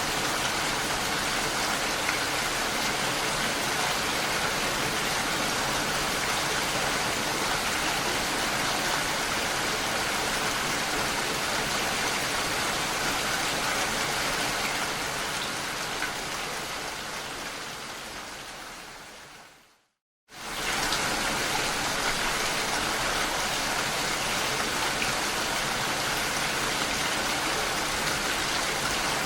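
Steady rainfall as an even hiss, which fades away over several seconds to a brief silence about two-thirds of the way through, then starts again suddenly at full level.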